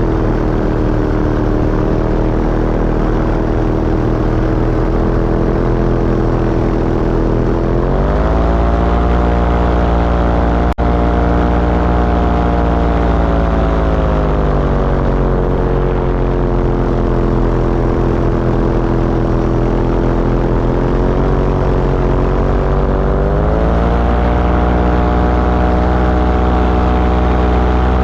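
Small propeller aircraft engine running in flight, its pitch stepping up about eight seconds in as the throttle opens, easing back down over the next several seconds, then stepping up again near the end. A single sharp click about eleven seconds in.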